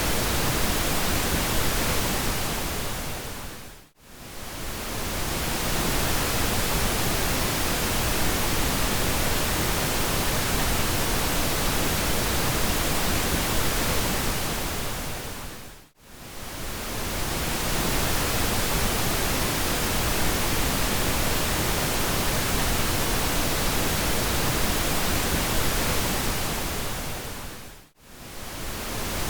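Steady pink noise: an even, full-range hiss. It fades almost to silence and back three times, about twelve seconds apart.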